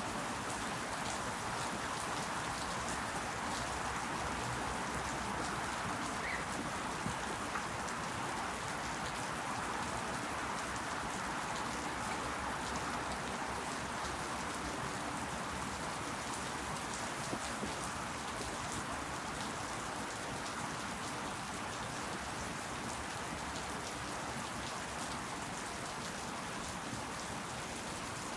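Steady rain falling, an even hiss with faint scattered drop ticks, pattering on leaves.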